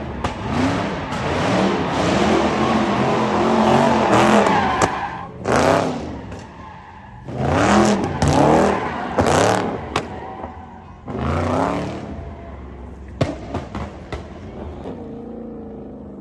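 A high-powered car engine revving hard in four long bursts, its pitch climbing and falling, over a hiss of spinning tyres, as in a burnout. A few sharp pops follow in the second half.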